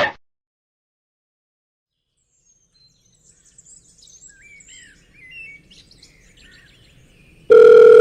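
Near silence for about three seconds, then faint bird chirps. Near the end a loud, steady, beep-like tone starts abruptly.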